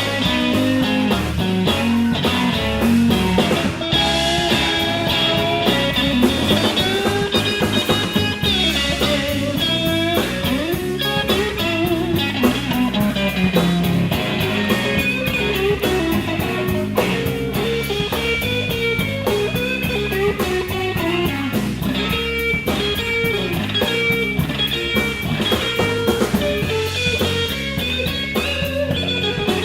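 A live blues band playing an instrumental passage: electric guitar plays bending lead lines over bass and drums keeping a steady beat, with no vocals.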